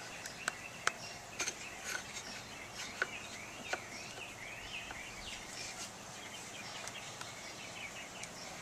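Small birds chirping outdoors: short high chirps and quick rising-and-falling twitters, a run of them repeated in quick succession around the middle, over a faint steady background hiss.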